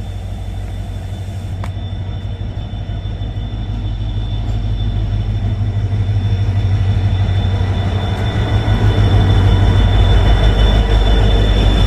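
Passenger express train running with a heavy low rumble and a thin high-pitched whine, growing steadily louder.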